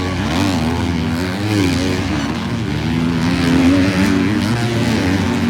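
A pack of 250cc motocross bikes racing, several engines overlapping and revving up and down as the riders work the throttle.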